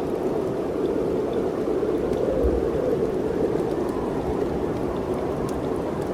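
Mountain wind rushing steadily, with a low rumble that swells about two and a half seconds in.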